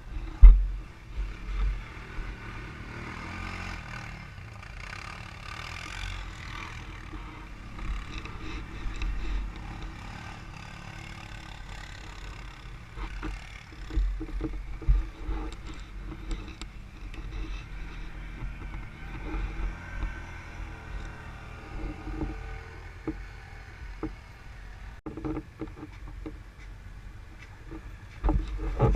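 ATV engine running, its pitch rising and falling as the throttle is worked, with scattered low thumps and knocks, the loudest about half a second in.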